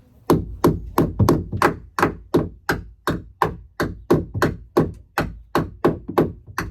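Hammer driving a nail into wood, about twenty steady blows at roughly three a second.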